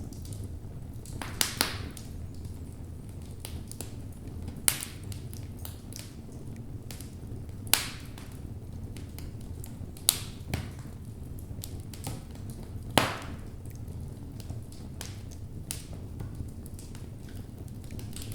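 Wood logs burning in a fireplace: a low steady rumble of flame with scattered crackling and several sharp pops from the wood. Two pops come close together about a second and a half in, and others come near five, eight, ten and thirteen seconds.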